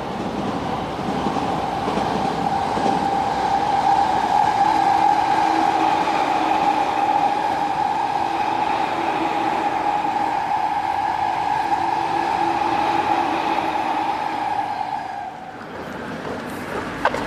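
Sotetsu line electric passenger train running past, a steady motor whine over wheel-on-rail noise, which dies away about fifteen seconds in.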